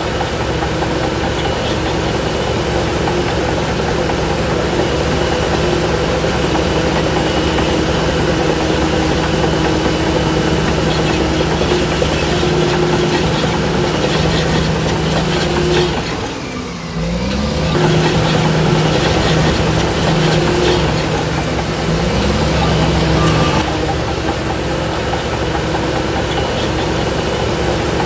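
Heavy diesel engine of earthmoving machinery running steadily at working speed. About two-thirds of the way through, the engine note briefly drops and then climbs back up.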